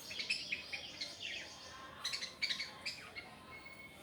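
Lovebirds chirping: rapid runs of short, high chirps, one burst at the start and another about two seconds in.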